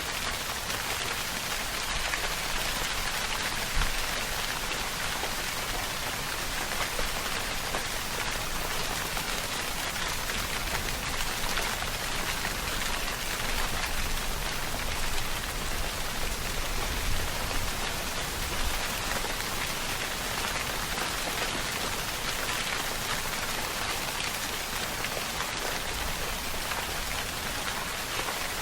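Steady rainfall: a dense, even patter of raindrops on a surface, with a few louder drops here and there and a faint low rumble at times.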